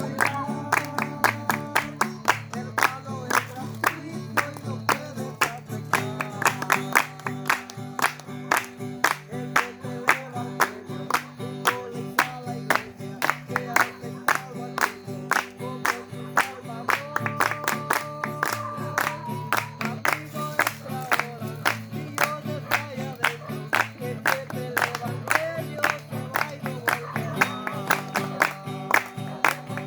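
A group singing a worship song to guitar accompaniment, with hand-clapping steadily on the beat, about two to three claps a second.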